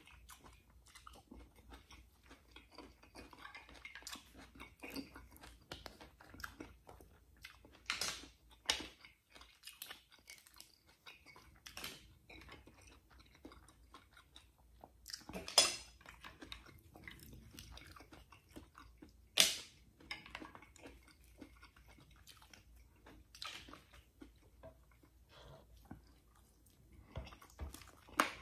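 Close-miked chewing and mouth sounds of a man eating fried milkfish, mussels and rice with his hands, with many small clicks and a few louder sharp clicks, the loudest about 15 and 19 seconds in.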